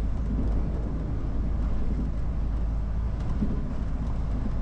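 Steady low rumble of an articulated lorry's diesel engine and road noise, heard from inside the cab while driving slowly.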